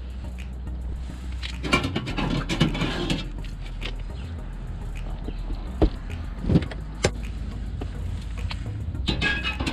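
Old wood chips being dumped from a Masterbuilt electric smoker's chip tray and fresh chips added: rattling patches of chips with a few sharp knocks in the middle, over a steady low hum.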